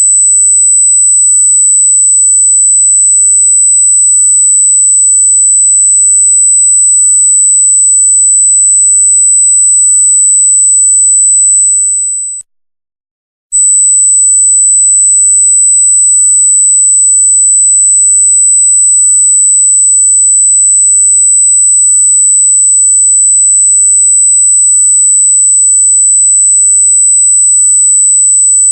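A single loud, very high-pitched steady sine tone with no other sound. It fades out about twelve seconds in, drops to silence for about a second, then comes back abruptly at full strength.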